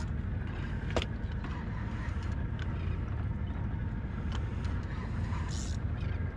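A boat engine running steadily at low revs, with a single sharp knock about a second in.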